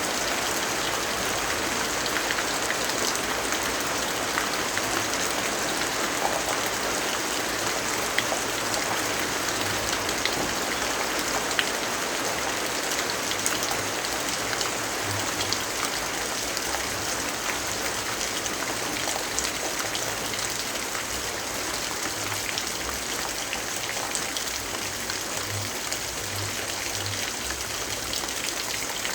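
Steady rainfall, with many small drop clicks scattered through an even hiss of rain.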